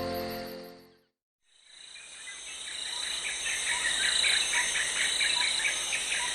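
Music fades out in the first second. After a short gap, a steady chorus of chirping insects fades in and keeps going, high-pitched with many quick repeated chirps.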